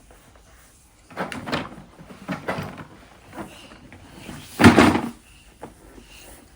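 Knocking and rattling of small hard objects being handled, in several short bouts, the loudest just before five seconds in, followed by a few faint clicks.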